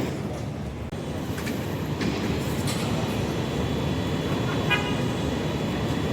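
Heavy tow truck's diesel engine running with a steady low rumble amid street traffic, and a short horn toot about three-quarters of the way through.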